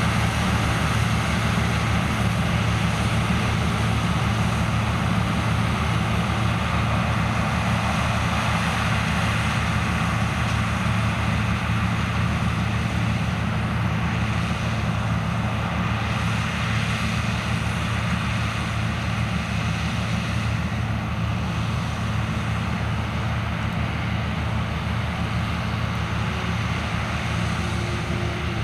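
Large diesel farm machinery running steadily under load: a deep engine drone with an even mechanical rush over it, easing off slightly near the end.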